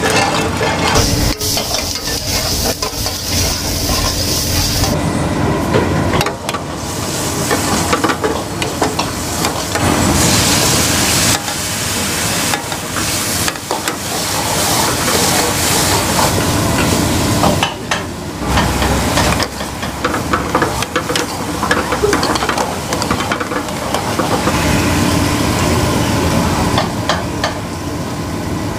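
Oil, then onion masala and chicken pieces, sizzling and frying in a hot pan, with a steel ladle stirring and scraping against the metal and knocking from time to time. This is the masala base of a chicken biryani being fried.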